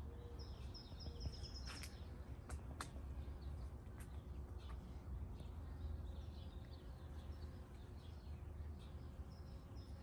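Small birds chirping faintly: a high pulsed trill in the first couple of seconds, then scattered short, sharp chirps, over a low steady rumble.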